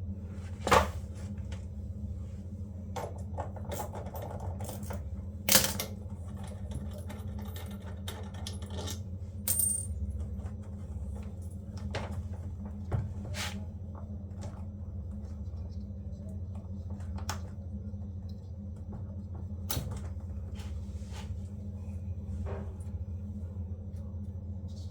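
Scattered light metallic clinks and clicks of small hard objects being handled, over a steady low hum; the sharpest clicks come about a second in and near six seconds, with a brief high ring near ten seconds.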